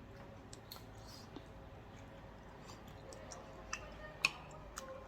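Scattered light clicks and taps of eating utensils against a dish during a meal, a few sharper ones near the end and the loudest about four seconds in.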